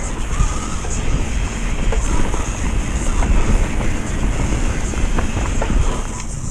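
Wind buffeting the microphone over the steady rumble of a downhill mountain bike rolling over a rough trail, with scattered clicks and rattles from the bike.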